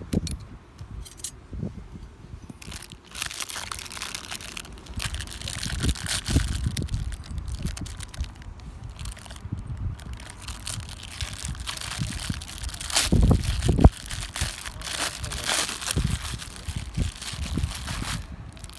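Crinkling, rustling handling of tent fabric, with irregular crackles. About 13 seconds in there is a low rumbling buffet, like wind on the microphone.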